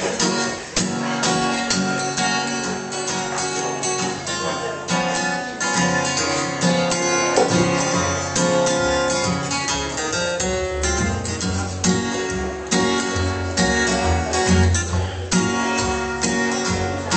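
Live bluegrass instrumental intro on acoustic guitar and other plucked strings, played in F sharp at a steady picking pace.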